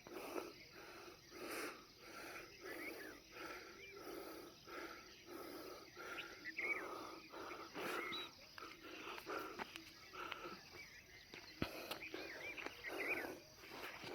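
A person walking: footsteps and breathing in an even rhythm of a little under two a second, with short bird chirps now and then.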